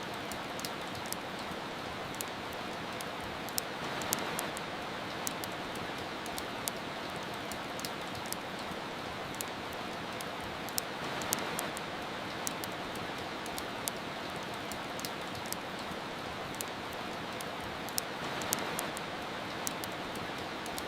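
Steady rain hiss with the irregular sharp pops and crackles of a wood fire over it, swelling gently about every seven seconds.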